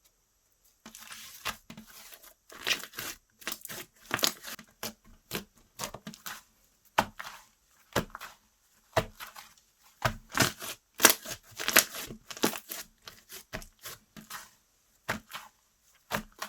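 Slime being stretched, pressed and squished by hand, giving a string of irregular sticky pops and crackles.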